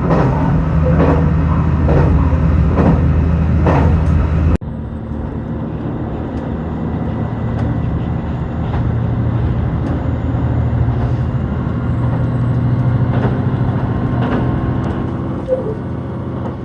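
JR Shikoku 2000 series diesel train running: a steady engine drone with wheels clicking over rail joints about once a second. It cuts off abruptly about four and a half seconds in, and a steadier engine drone with only a few clicks carries on.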